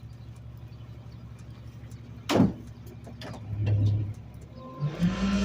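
Garbage truck engine running at idle with a sharp knock about two seconds in. Near the end the engine speeds up to a higher steady hum.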